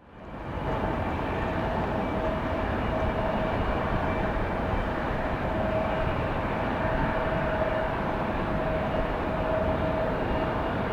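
Jet airliner's engines running with a steady rushing noise and a steady whine, rising in at the start and holding level throughout.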